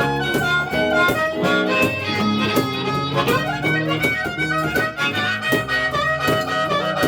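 Live blues band playing: a held, sustained lead melody over a steady strummed, rhythmic accompaniment.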